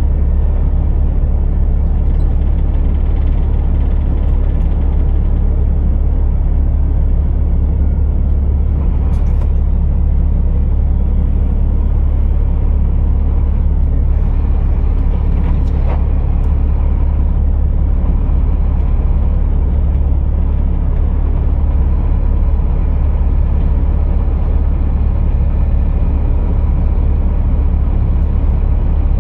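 Scania R480 truck's 13-litre six-cylinder diesel running steadily, a loud unbroken low drone.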